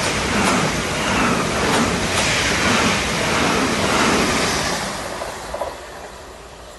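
Southern electric multiple unit passing close at speed: a loud rush of wheels on rail and moving air with a few sharp clicks, fading away about five seconds in as the train recedes.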